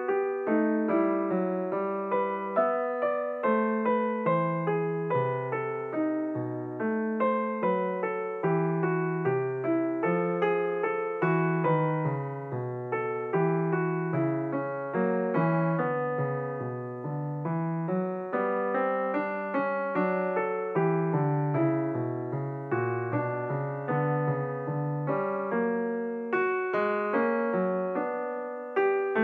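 Solo piano background music: a continuous stream of notes, each struck and fading, at an even, unhurried pace.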